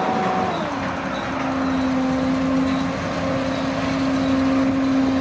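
Combine harvester's diesel engine running as it travels on the road; its engine note drops about half a second in and then holds steady.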